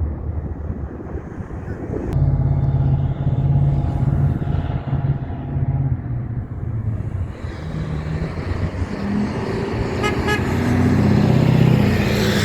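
Heavy diesel truck engine running loud, coming in strongly about two seconds in, with traffic around it.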